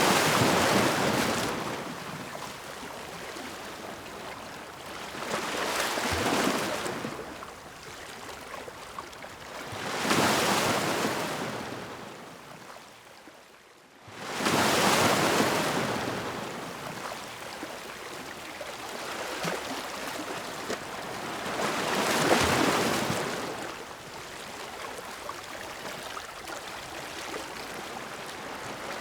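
Ocean waves breaking and washing up the shore, each one swelling to a rush of surf and then drawing back, about five waves in turn. A short lull comes just before the middle, then a wave breaks suddenly.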